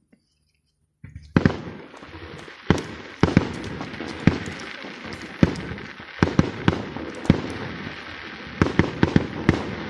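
Fireworks display going off: sharp bangs from the shells bursting, one after another, over continuous crackling. It starts about a second in, after a brief silence, and the bangs come thickest near the end.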